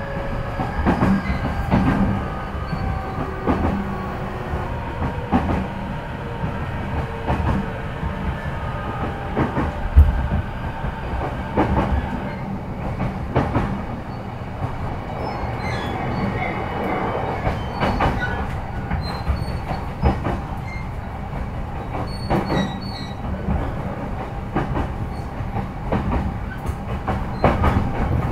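Running noise inside a moving JR East E233-5000 series electric motor car: a steady rumble of wheels on rail with clicks over rail joints and a whine that slides in pitch, with one sharp knock about ten seconds in.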